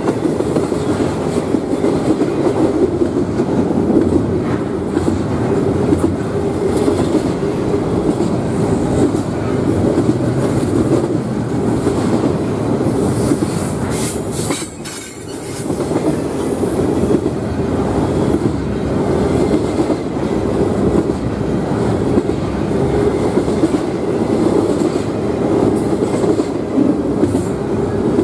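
Double-stack intermodal freight train of container-laden well cars rolling past close by: steady rumble and clatter of steel wheels on the rails, with a brief lull about halfway through.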